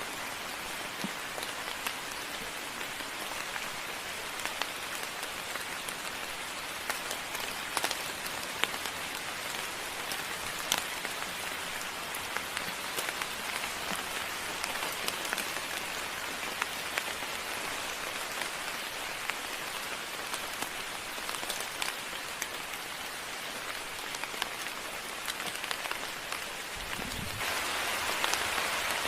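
Steady moderate rain falling, with individual drops ticking sharply through the hiss; it gets louder near the end.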